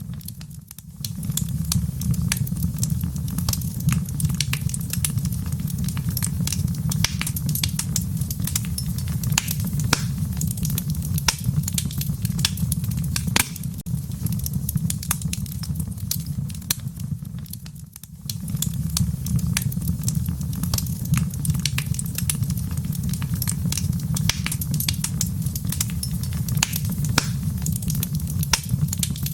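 Wood fire crackling in a fireplace: a dense, irregular stream of sharp pops and snaps over a steady low rumble. The rumble drops out briefly about a second in and again about two-thirds of the way through.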